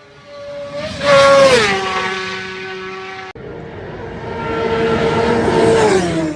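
Two racing motorcycles flying past at very high speed, one after the other: each engine's pitch climbs on approach and drops sharply as it passes. The first pass is the loudest, about a second in; the second builds up and drops in pitch near the end.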